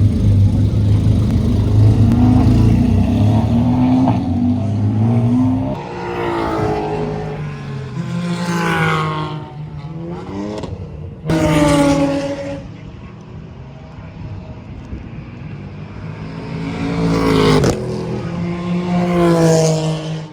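Race car engines running at a racing circuit, several cars going by one after another, their pitch rising as they accelerate and falling as they pass. One engine holds a steady note for the first few seconds, and another cuts in suddenly about eleven seconds in.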